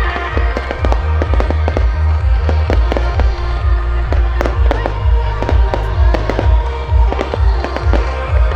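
Fireworks going off in rapid succession, many sharp bangs and crackles close together, over loud music with a heavy, pulsing bass.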